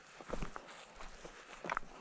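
Footsteps of a person walking over rough ground, a few uneven steps.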